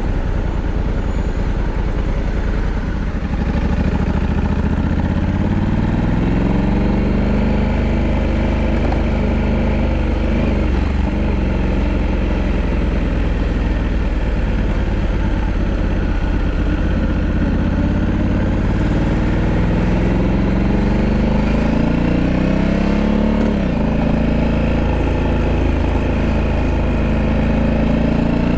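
Honda Africa Twin 1100's parallel-twin engine running under way, its note climbing as it accelerates, with a sudden drop in pitch about 23 seconds in, then climbing again.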